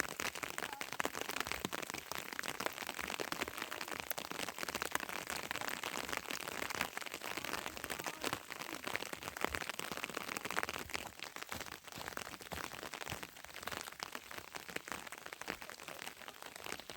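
Heavy rain falling: a steady dense hiss made of countless small drop impacts.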